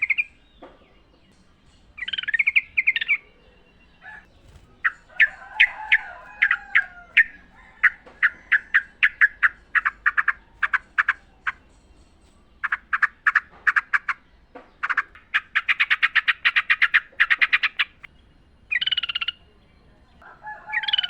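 Yellow-vented bulbul singing in loud bubbly phrases, broken by runs of sharp repeated notes at about three or four a second. Near the end comes a faster rattling run.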